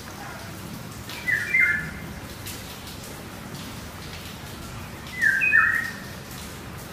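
Male Anna's hummingbird giving two short bursts of quick chirping notes, about four seconds apart.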